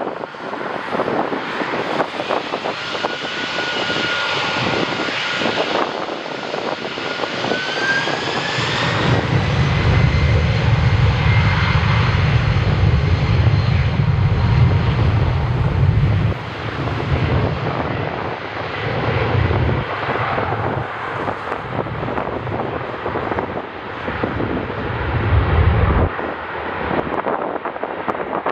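Jet airliner engines running, with a high whine that rises in pitch a few seconds in, as a plane passes. Strong wind buffets the microphone with a gusting low rumble through much of the sound.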